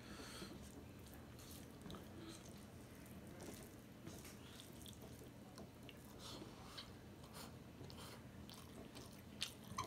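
Soft, faint chewing of a mouthful of rice and curry, with small wet clicks and smacks. Fingers mix rice on a steel plate, and there is one sharper click near the end.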